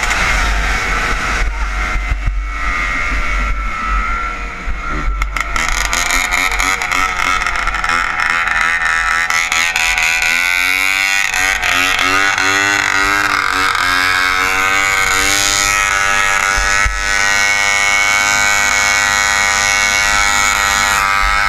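Snowmobile engine running at high revs. Its pitch drops over the first few seconds, climbs again about ten seconds in, then holds steady.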